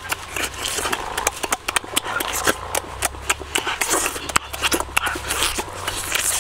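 Close-up eating of roast chicken: wet chewing and lip-smacking, with many quick irregular clicks as the meat is bitten and chewed.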